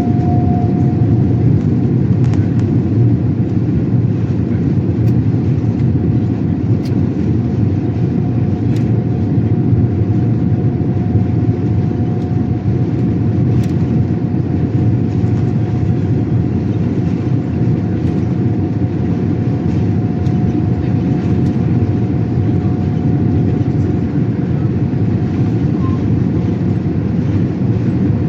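Boeing 787-8 cabin noise while the airliner rolls on the ground: a steady, loud rumble of engines and wheels with a faint steady whine, and a few light knocks.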